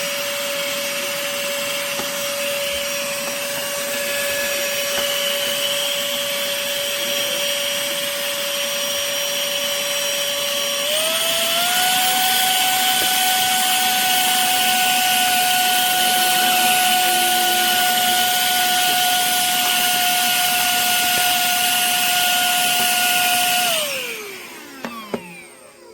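Handheld vacuum cleaner motor running with a steady whine over airflow hiss. About eleven seconds in it steps up to a higher, louder speed. Near the end it is switched off and winds down with a falling whine, with a click as it stops.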